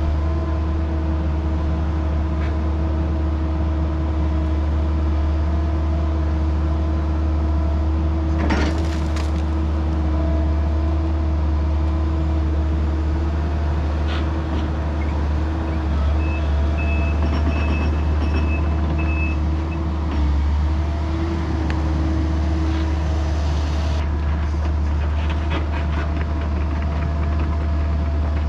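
Excavator's diesel engine running steadily under work, with a sudden noisy burst about eight seconds in and a few knocks near the end.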